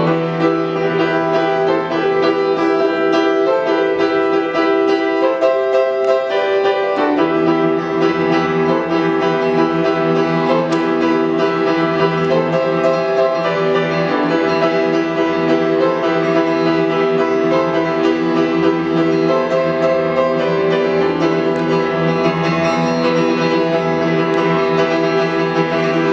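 Live piano or keyboard music playing held chords that change every few seconds.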